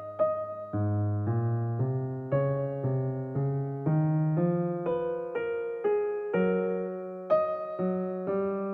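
Background music played on an electric piano: struck chords about twice a second over a slowly stepping bass line.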